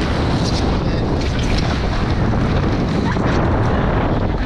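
Wind buffeting the microphone over water rushing past the hulls of a Nacra 20 beach catamaran under sail: a steady, loud rumbling noise.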